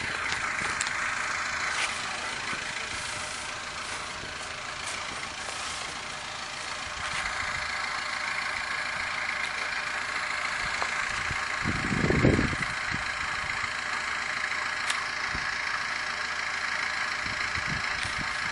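A vehicle engine idling steadily, with a brief low rumble about two-thirds of the way through.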